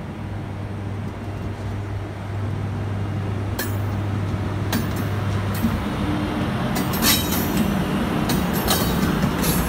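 SNCF BB 7200 electric locomotive and its passenger coaches rolling slowly past on the track, with a steady low hum from the locomotive. From about three and a half seconds in come sharp metallic clinks and clanks from the wheels over the rails, growing more frequent and louder toward the end.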